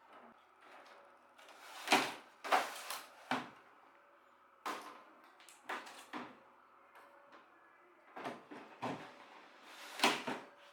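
A series of irregular knocks and bumps, like hard parts being handled and set down, loudest about two seconds in and again near the end.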